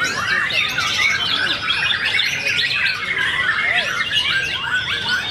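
Many contest songbirds singing at once: a dense, unbroken chorus of overlapping chirps, trills and quick rising and falling whistles.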